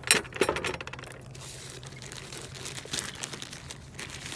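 Hands rummaging through the small items in a metal ammo-box geocache: a few sharp clinks in the first second, then softer crinkling and rustling of wrapped objects.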